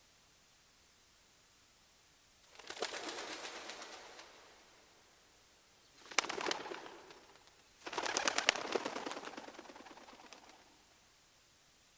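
A bird's wings flapping in three bursts, the last the longest at about two and a half seconds.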